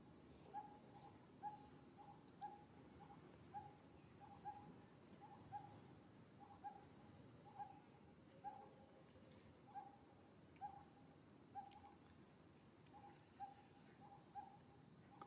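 Faint, monotonous bird call: a single short note repeated about twice a second, over a steady high hiss.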